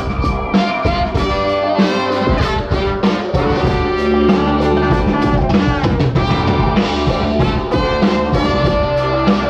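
Live brass band playing: trumpets and trombones holding notes over a drum kit, a slow number.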